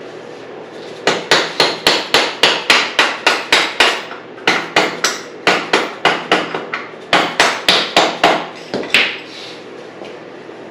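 Mallet hammering a metal punch in quick runs of sharp blows, about four a second, three runs and then one last blow near the end. The blows are driving out a dirt bike's rear shock mounting bolt.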